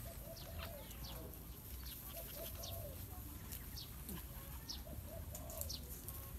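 Birds calling: short, quick, falling high chirps dotted through, and soft low arched calls repeated in small groups.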